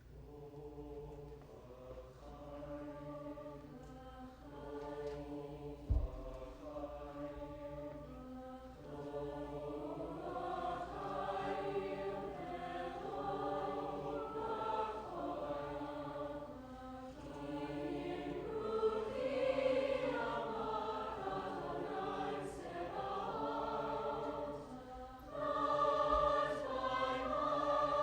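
High school choir singing slow, sustained chords, growing gradually louder. A brief low thump about six seconds in.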